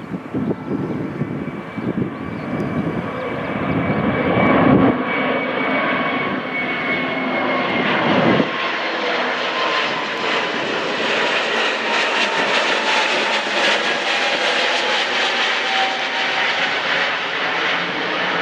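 Jet airliner's engines passing close by: the noise swells over the first few seconds and then holds loud, with whining tones that slowly fall in pitch.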